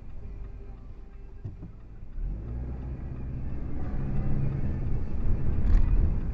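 Car engine and road rumble heard from inside the cabin, growing louder from about two seconds in as the car picks up speed.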